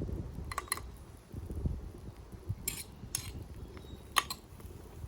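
A metal utensil clinking against a cooking pot or dish: about five sharp, irregularly spaced clinks over a low rumble.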